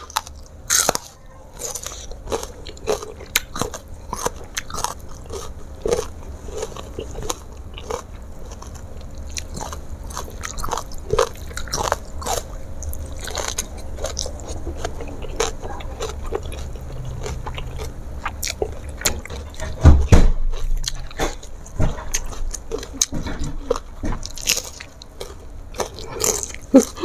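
A person chewing and crunching mouthfuls of raw bitter melon, rice and fried fish, eaten by hand close to the microphone: many short crunches and wet mouth clicks. A dull thump sounds about two-thirds of the way through.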